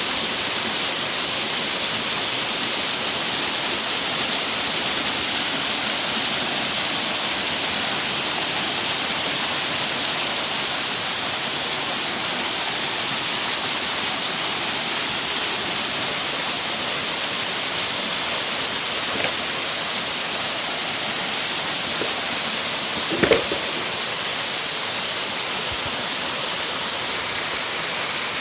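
Waterfall rushing steadily. A short thump sounds once near the end.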